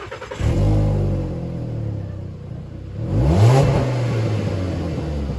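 Volkswagen Golf 2.5 five-cylinder engine running through a leaking exhaust, really loud. It is blipped once about three seconds in, the pitch rising and falling back.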